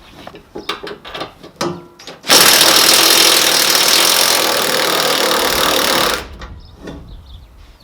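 Power tool running in one loud, steady burst of about four seconds, with a few sharp knocks before it.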